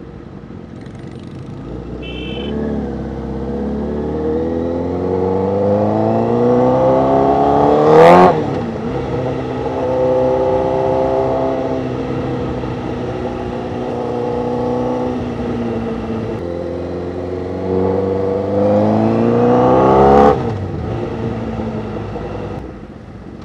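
Honda CBR1000RR's inline-four engine through an SC-Project aftermarket exhaust, heard from the rider's seat while riding. The engine note climbs under acceleration for the first several seconds, with a sharp crack about eight seconds in. It then runs fairly steadily, rises again, and drops off suddenly a few seconds before the end as the throttle closes.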